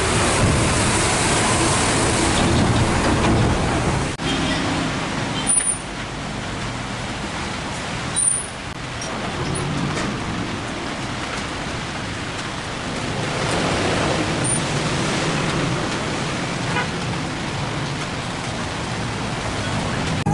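Hino 500 FM320TI truck's diesel engine running under way with road noise, heard from inside the cab. Two short, sharp sounds stand out, about five and eight seconds in.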